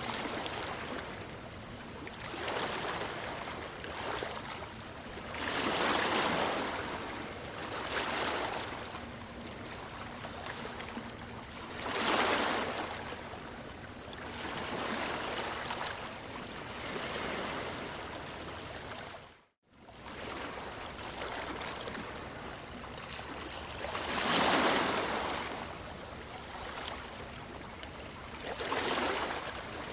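Ocean waves breaking on a beach: a steady wash of surf that swells into louder crashes about every few seconds, with the biggest ones around a fifth, two-fifths and four-fifths of the way through, each then ebbing away. About two-thirds through the sound cuts out for a split second and comes straight back.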